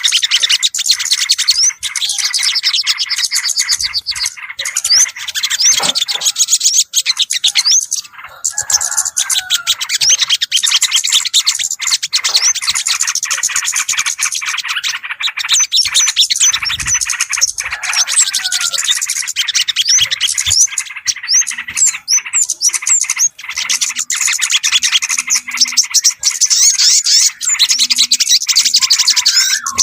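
Bird-lure recording of many small birds chirping and twittering at once, a dense, continuous high-pitched chorus of quick rising and falling calls. It is played to draw in yellow-vented bulbuls and other small birds.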